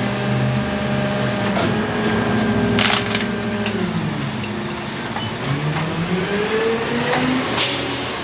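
Garbage truck's diesel engine running, its revs dropping and then climbing again, with two short hisses of air, typical of the truck's air brakes.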